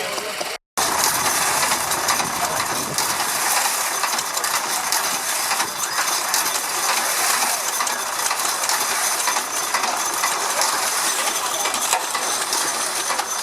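Vintage stationary engine machinery running with a dense, rapid mechanical clatter of many fine clicks, after a brief cut to silence right at the start.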